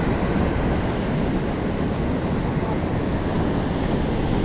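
Steady rushing of a fast-flowing, rain-swollen river.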